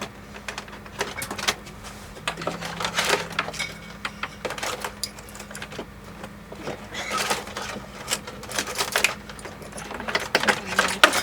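Irregular clicks, taps and short rattles of small parts being handled and fitted by hand, over a steady low hum.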